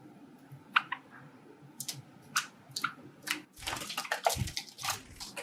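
Java sparrows bathing in a water dish: a run of short splashes and wing flutters. They are scattered at first and become busy and continuous about three and a half seconds in.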